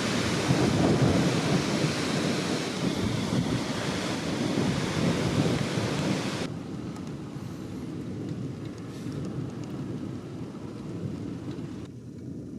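Strong thunderstorm wind buffeting the microphone, with a low rumble and a hiss. About halfway through the hiss cuts off suddenly, leaving a quieter low rumble.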